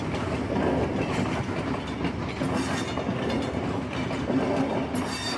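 Train running along the rails: a continuous rumble of wheels on track with a faint steady hum.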